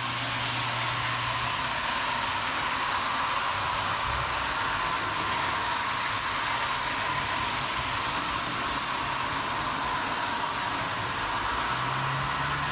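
HO-scale model train running on the layout's test loop: a steady, even hum with a hiss and a constant tone.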